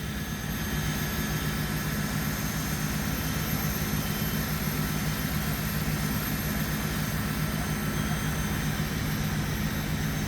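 Fire engine's diesel engine running steadily, a continuous low drone with a steady hum.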